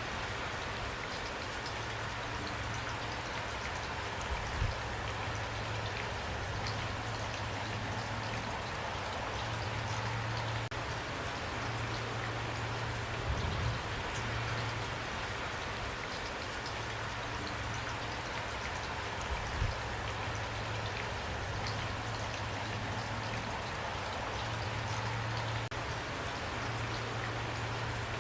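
Steady rain falling, an even hiss of drops, with a few louder drop hits and a low hum underneath that swells and fades.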